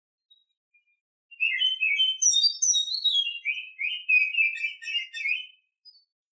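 Female oriental magpie-robin singing one fast, varied phrase of whistled and chattering notes. It begins just over a second in and lasts about four seconds.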